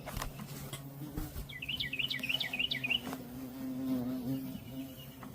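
A fly buzzing steadily close by, its hum wavering slightly in pitch. A songbird sings a quick run of chirping notes from about a second and a half to three seconds in. There are a few faint knocks.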